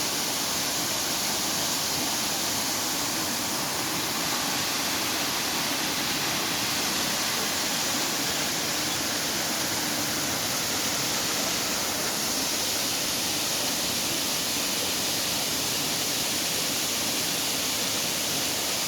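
Waterfall with water falling and rushing steadily, an unbroken even hiss.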